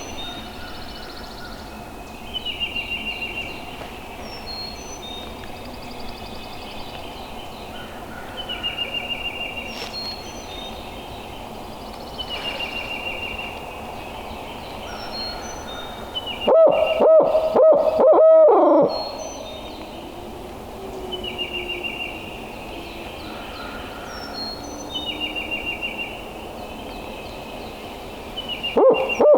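A songbird sings a short trilled phrase about every four seconds. About 17 seconds in, a much louder series of owl hoots breaks in, ending in a falling note in the pattern of a barred owl, and the hooting starts again near the end.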